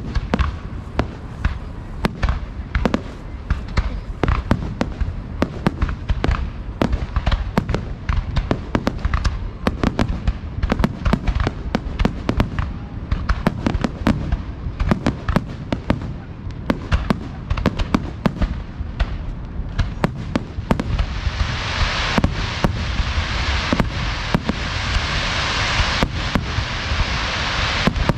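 Fireworks display at close range: aerial shells launching and bursting in rapid, overlapping bangs with no let-up. A steady hissing wash builds up under the bangs over the last several seconds.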